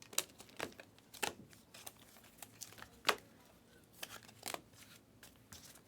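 Trading cards being handled and flipped through by hand: irregular light clicks and rustles of card stock.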